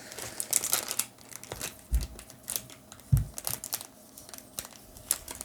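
Foil booster-pack wrappers crinkling and crackling as the packs are handled, with two soft low thumps about two and three seconds in.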